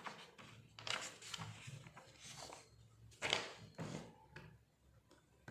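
Faint paper rustling and scraping as a page is turned over to a fresh sheet, in a few short bursts.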